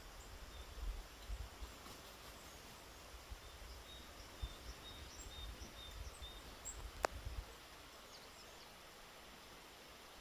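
Faint, high-pitched calls of small woodland birds: a quick run of short notes a couple of seconds in, with scattered higher chirps, over a low rumble on the microphone. One sharp click about seven seconds in.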